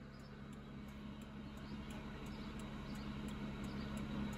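1998 Toyota Sienna's 3.0-litre V6 idling steadily, heard from inside the cab, with the turn-signal flasher ticking faintly and evenly.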